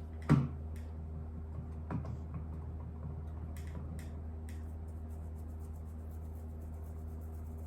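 A sharp knock on a workbench, a softer knock about two seconds later and a few light ticks of small tools, over a steady low hum.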